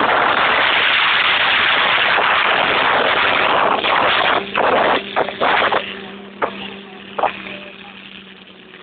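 Monster truck's V8 engine at full throttle, a loud steady roar that breaks into several sharp throttle blips about four to six seconds in, then fades and settles as the truck backs off.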